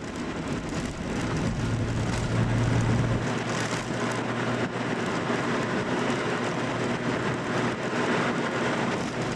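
Classic car's engine and tyre noise while driving on the road. The engine hum swells over the first few seconds, then holds steady under a constant road hiss.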